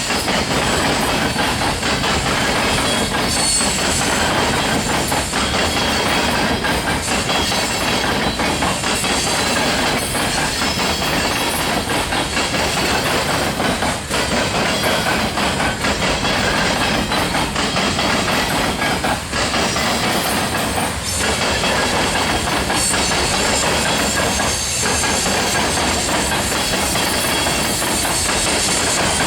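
Freight cars of a loaded rock train rolling past, a loud steady rumble of steel wheels on rail with clacking over the rail joints.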